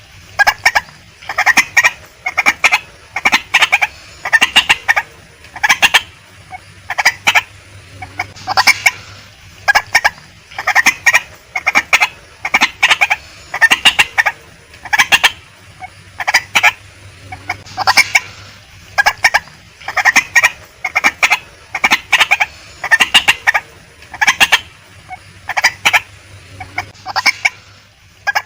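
Female white-breasted waterhen calling: loud, harsh calls repeated in quick clusters, about one cluster a second, with no let-up.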